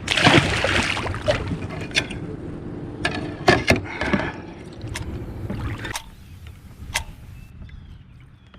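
Sounds of a kayak on the water: water sloshing and hard knocks against the hull and gear. They stop abruptly about six seconds in, leaving a quieter background with faint bird chirps near the end.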